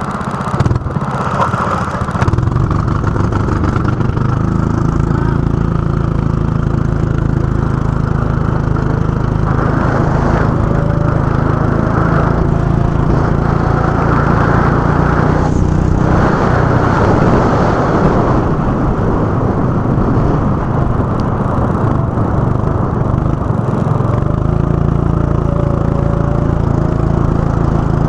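Go-kart engine running under load, a steady buzzing note that rises slowly as it revs. The sound eases off briefly about halfway through and again later on.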